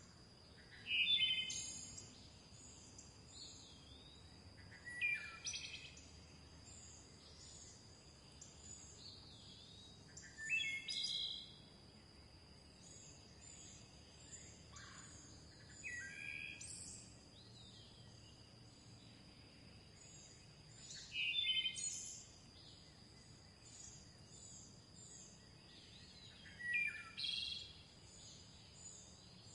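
Birdsong: one bird repeats a short, loud phrase that falls in pitch, about every five seconds, six times, over a continuous stream of quick, high chirping from other birds and a steady high tone.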